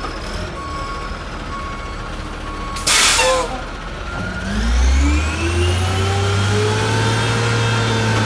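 1989 White/GMC Xpeditor garbage truck: reversing beeps sound at an even pace, then a loud, short hiss of air brakes. About four seconds in, the diesel engine revs up sharply and holds at high revs to drive the packer.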